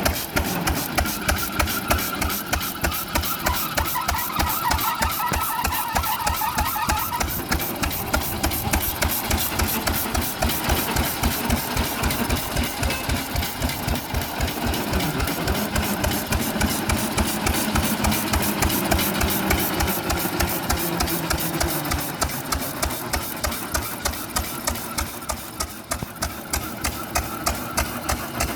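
1917 Fairbanks Morse Model Z 6 hp single-cylinder hit-and-miss engine running with a steady, even beat of firing strokes. It fires on every stroke without missing, as it does when driving the truck.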